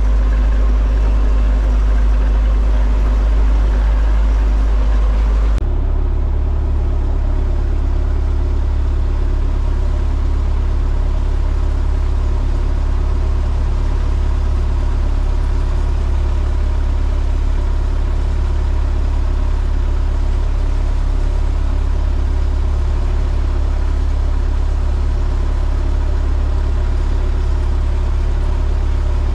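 Heavy engine running steadily with a deep, even drone. About five and a half seconds in, the drone changes abruptly to a slightly different steady pitch.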